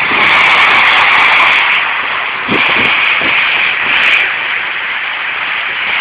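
Train passing through the station at speed: a loud, steady rushing noise, strongest in the first second and a half.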